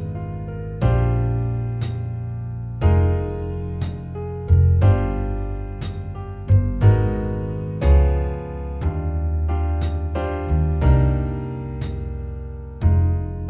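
Slow jazz ballad backing track: piano chords struck about once a second or two and left to ring, over sustained low bass notes, with light ticks from a cymbal or brushes.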